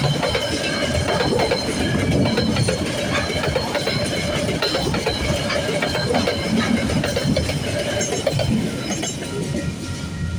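A train passing over a level crossing: wheels clicking over the rail joints under a steady rumble, with steady high ringing tones above. The sound eases slightly near the end.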